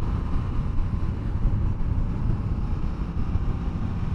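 Motorcycle running at road speed, a steady engine and road rumble with wind rushing over the microphone.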